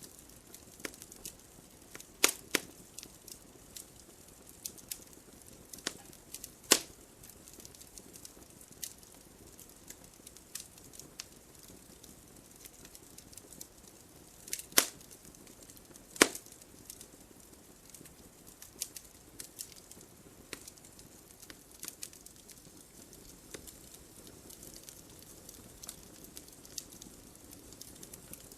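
Wood fire in a fireplace crackling softly, with scattered sharp pops. Four louder pops stand out: two in the first seven seconds and two close together about halfway through.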